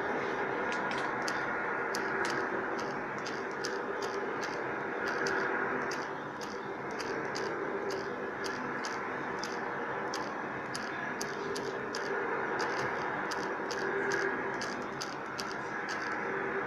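Loud, steady droning hum with two held tones that swell and fade slowly, of a source the recordist cannot identify and describes as very scary and strong enough to make her floor vibrate. A regular, high, sharp ticking, about two or three a second, runs over it.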